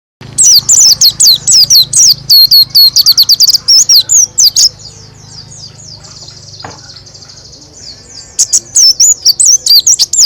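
A pleci (white-eye) sings a loud, rapid-fire roll of sharp, high chirps, the fast 'roll tembak' song. The roll eases to softer twittering in the middle, then bursts loud and fast again near the end.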